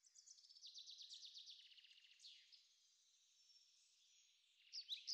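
Faint birdsong: a rapid trill of high chirps in the first couple of seconds, then quiet, then a run of short falling chirps near the end.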